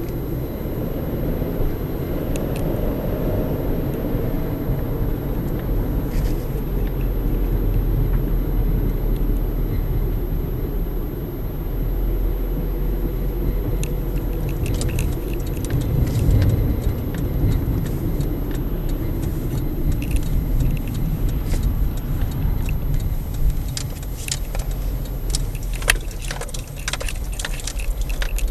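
Steady low rumble of a motor vehicle, with light rattling clicks that become more frequent in the second half.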